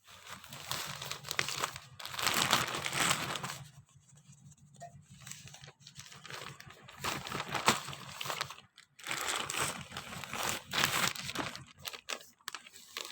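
Packaging being handled, crinkling and tearing. It comes in two spells, with a quieter stretch in the middle and a few sharp clicks.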